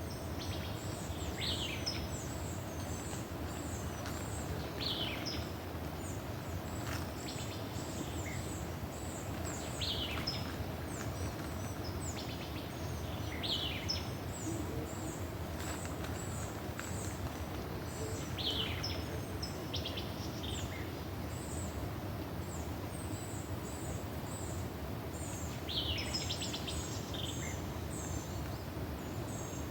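Birds calling outdoors: short, sharp falling calls every few seconds, over constant thin, high chirping and a steady low rushing background.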